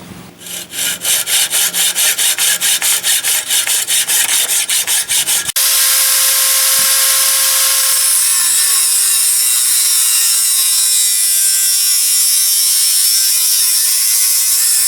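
Fast, even sawing strokes, about six a second, for the first five seconds or so. Then a power tool starts suddenly and runs with a steady whine that sinks in pitch a few seconds later, as if loaded, before cutting off at the end.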